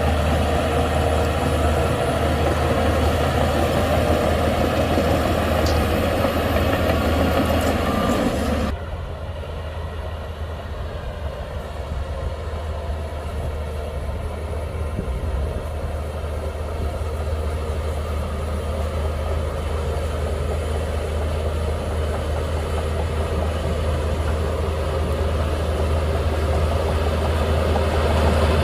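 Shantui DH17C2 bulldozer's diesel engine running, with a strong low hum. About nine seconds in the sound drops suddenly to a quieter, duller level, then slowly grows louder again.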